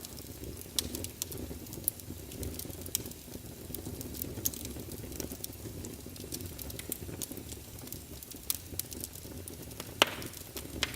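Wood fire burning in a fireplace: a steady low rush of flame with irregular sharp crackles and pops of the firewood, and one loud snap about ten seconds in.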